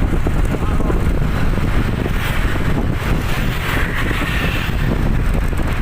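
Road traffic running past, with wind noise on the microphone.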